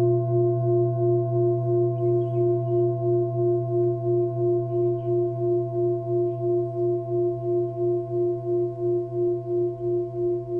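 Singing bowl ringing after a strike, its tones wavering in a steady pulse about three times a second and slowly fading. A few faint bird chirps come through twice.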